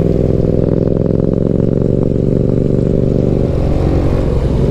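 Benelli BN 125 single-cylinder motorcycle engine running at a steady note while riding, heard from the rider's helmet-mounted microphone; the note wavers briefly about three and a half seconds in.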